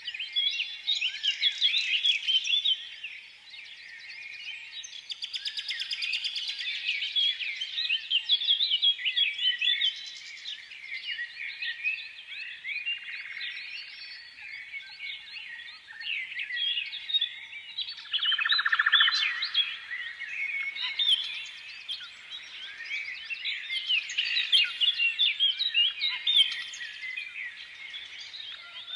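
Many small birds chirping at once, a dense, continuous chatter of short overlapping tweets.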